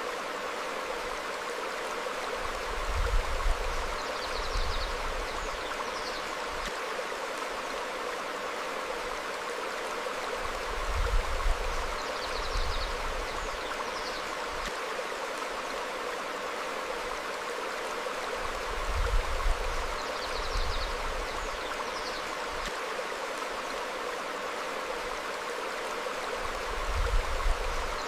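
Stream flowing over rocks, a steady rush of water. Brief low rumbles come about every eight seconds, and faint short bird chirps recur on the same cycle.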